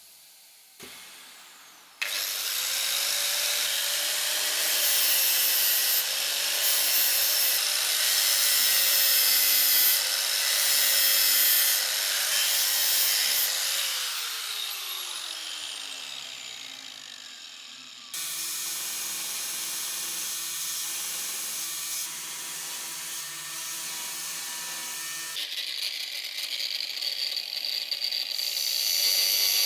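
An electric power tool running under load on metal, with a wavering motor tone; about two-thirds of the way through it is released and spins down with falling pitch, then starts up again and runs steadily.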